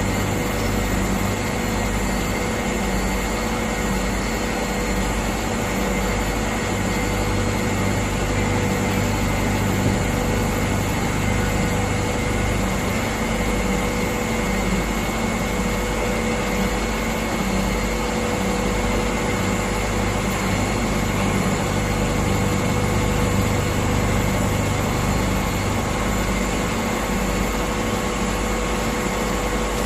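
Internal and external cylindrical grinding machine running steadily, with a constant whine over an even machine hum.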